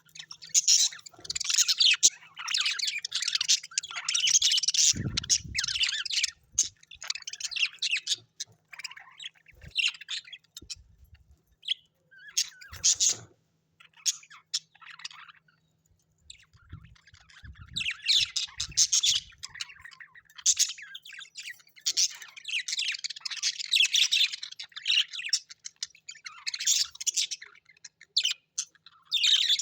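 Birds chattering and chirping in quick dense runs with occasional squawks; the chatter thins to scattered calls for several seconds in the middle, then picks up again. A low thump sounds about five seconds in.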